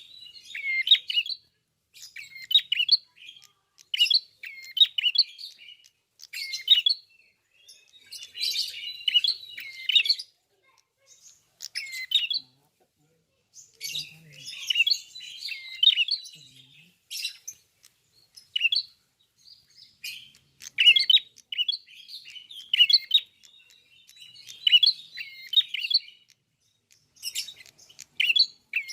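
A prenjak (red-headed or grey prenjak, a small songbird) singing vigorously: rapid high chirps and trills in repeated bursts of about half a second to two seconds, with short pauses between them.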